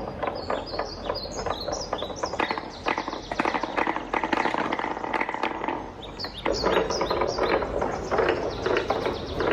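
Wooden balls rolling and clattering down a wooden marble run: a dense, quick run of wooden clicks and knocks, with short high pings scattered among them.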